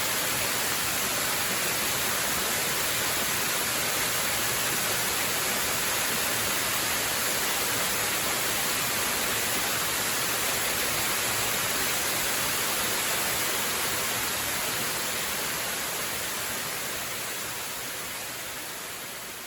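Waterfall: a steady rush of falling water that fades out over the last few seconds.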